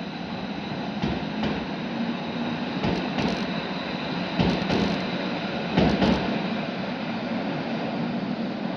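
Tyne and Wear Metro train running through the station, its wheels clacking in pairs over rail joints over a steady rumble, the clacks loudest about six seconds in before the sound settles to a plain rumble.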